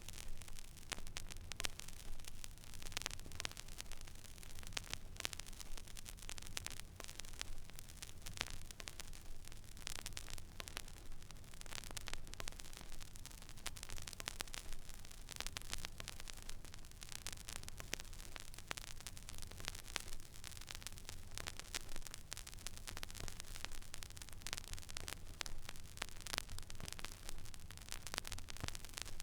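Record player stylus tracking the silent, empty groove of a vinyl record: surface hiss dense with many irregular small clicks and pops, over a low steady hum.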